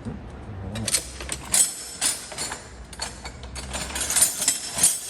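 Loose metal hand tools clinking and clattering as they are picked up and set down, a string of irregular clicks and knocks with the sharpest about one and a half seconds in and near the end.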